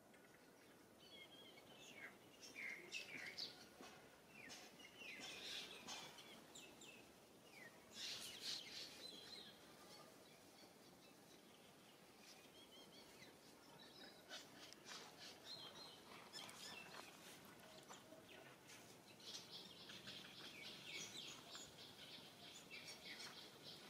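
Faint birdsong: clusters of short high chirps and twitters over a quiet background hiss.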